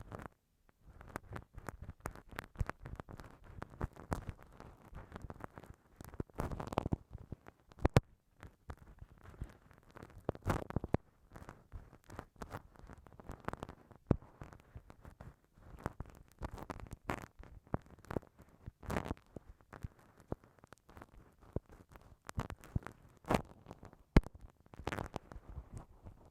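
Bamboo ear pick scraping and rubbing against a binaural microphone's ear, an irregular run of close scratches and sharp clicks.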